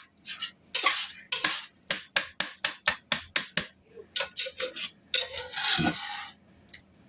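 A cooking utensil scraping and clacking against a cast iron skillet as beef is stirred, about four quick strikes a second, then a few longer scrapes before it stops near the end.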